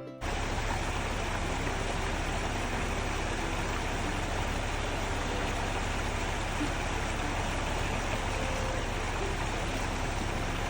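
Steady noise of a car driving along the road: low rumble with an even hiss of tyre and road noise, unchanging throughout.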